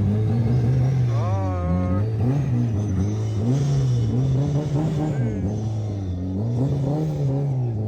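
A car engine revved over and over, its pitch climbing and dropping about once a second.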